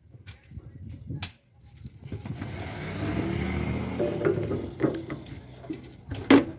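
Diesel engine of heavy machinery picking up revs about two seconds in and then running steadily under load, with a loud sharp clank near the end.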